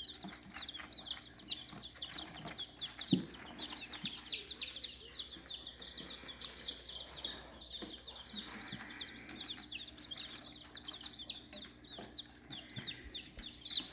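Baby chicks peeping continuously, many high, overlapping cheeps in quick succession, with a few soft knocks.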